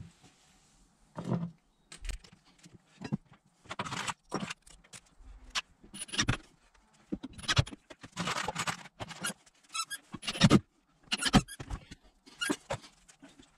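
Irregular series of short clanks, rattles and scrapes from hand tools and metal fittings being handled during installation work.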